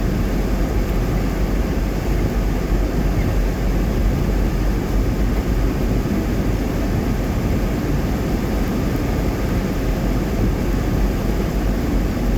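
Steady road noise inside a moving car: tyres on a wet highway and engine hum, a constant low drone.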